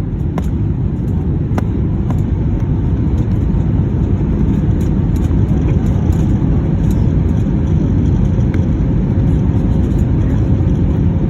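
Airliner cabin noise during landing: a loud, steady low rumble of the engines and rushing air, with a few faint rattles.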